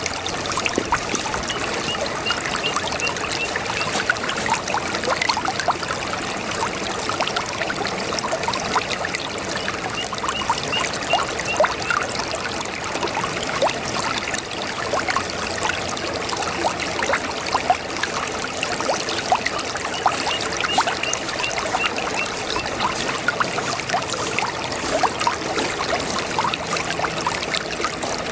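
Shallow brook babbling steadily over stones, a continuous rush of water with many small splashes and gurgles.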